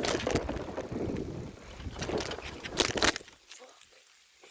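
Bicycle riding over gravel: tyres crunching and the bike rattling, with wind on the microphone. A couple of sharp knocks about three seconds in, then the noise drops away to quiet.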